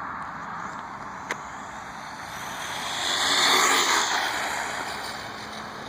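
1/10-scale electric RC car running at speed, its motor whine and tyre noise swelling as it passes close about three and a half seconds in, then fading away.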